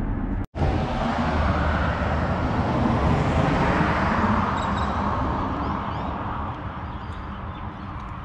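Car road noise that swells to a peak a few seconds in and then slowly fades, with a few faint bird chirps over it in the second half.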